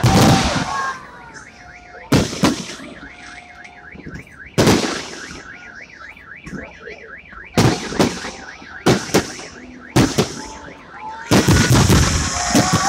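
Aerial fireworks exploding: loud sharp bangs every second or two, bunching into a quick volley with crackling near the end, with short whistling streaks between the bursts. A warbling alarm tone repeats in the background through the first half.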